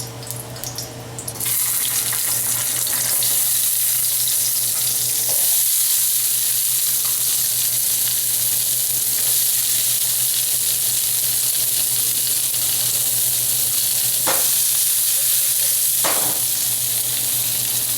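Vegetables sizzling in hot olive oil in a steel frying pan. The sizzle starts suddenly about a second and a half in as they go into the pan, then holds steady.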